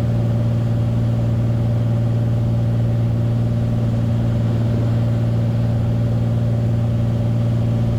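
Beechcraft Bonanza's six-cylinder piston engine and propeller droning steadily at constant power, heard inside the cockpit.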